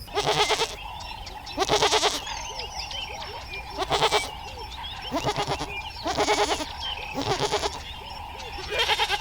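Goats bleating over and over, about seven wavering calls a second or so apart, with faint chirping between them.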